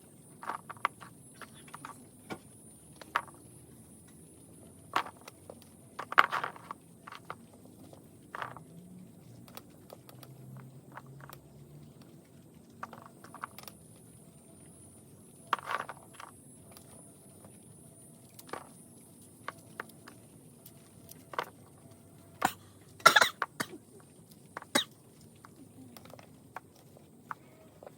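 Irregular sharp snaps and knocks, a few dozen of them, the loudest about 6, 16 and 23 seconds in, over a faint steady high-pitched hiss.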